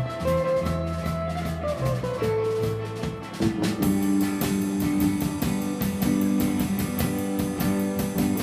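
Instrumental guitar band music: an electric guitar melody over bass and drums. The drums and cymbals come in fuller about four seconds in.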